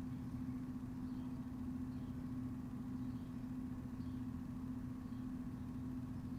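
A steady, unchanging mechanical hum with a low drone, holding one even pitch throughout. Faint, scattered high chirps sound now and then above it.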